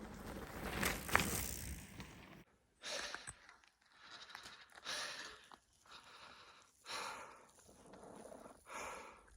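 A person breathing hard close to the phone's microphone, a noisy breath every second or two, after a couple of seconds of rumbling wind and handling noise.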